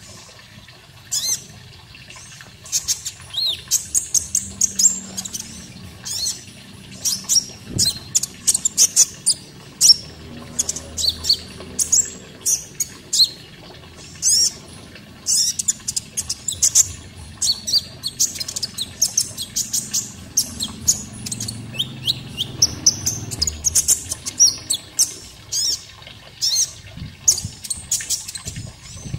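Konin songbird chirping: many quick, high-pitched chirps and twitters in close succession, over a faint steady sound of running water.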